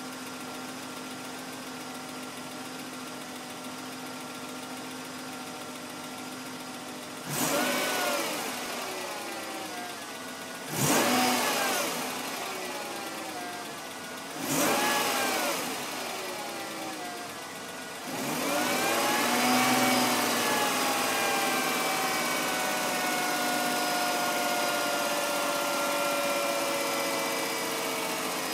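BMW M52 straight-six engine idling, then revved three times in short blips, then held at higher revs for about ten seconds, its pitch slowly falling. It is run to show a strange noise the owner hears from it.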